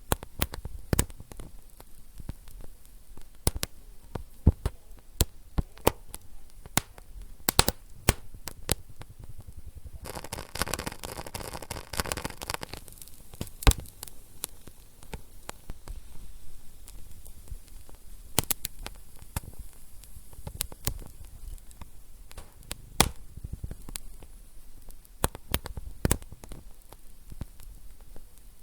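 Wood fire in a fireplace crackling, with irregular sharp pops over a low hiss. About ten seconds in, a denser rush of crackle and hiss lasts nearly three seconds.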